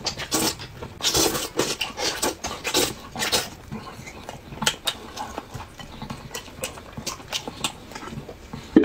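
Chewing and lip-smacking from a man eating meat torn off the bone by hand, in irregular bursts that thin out after the first few seconds. A sharp knock at the very end as a stainless-steel bowl is handled.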